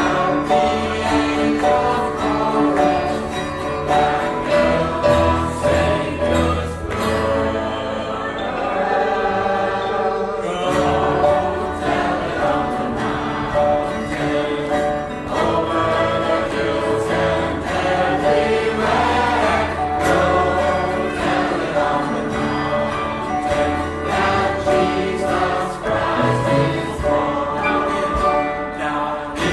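A group of voices singing a Christmas carol together, choir-style, over a steady low instrumental accompaniment.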